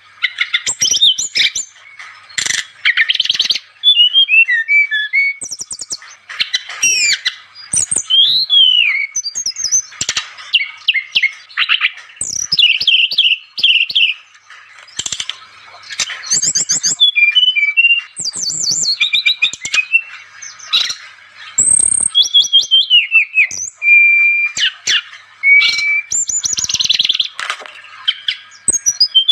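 A brown-chested jungle flycatcher (SRDC) singing non-stop: a rapid, varied stream of high chirps, trills and short whistled sweeps with only brief gaps.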